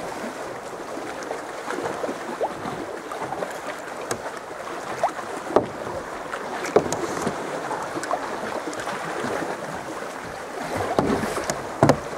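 Sea kayak being paddled: paddle blades splash into the sea at irregular strokes over water lapping along the hull, with a louder splash near the end.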